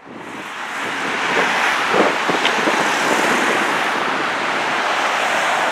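Steady rushing noise of road traffic with wind on the microphone, fading in over the first second. A few brief knocks come about two seconds in. No siren is heard.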